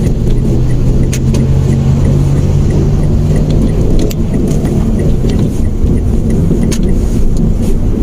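Mitsubishi Mirage manual hatchback driving, heard from inside the car: engine hum and road rumble. The steady engine tone fades into the road noise about three and a half seconds in, and a few sharp clicks come through.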